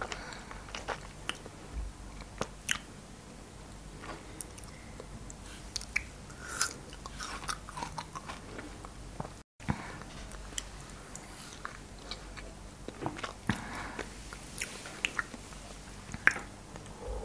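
Close-miked biting and chewing of frozen cherries: irregular sharp crunches and clicks. The sound drops out for an instant about nine and a half seconds in.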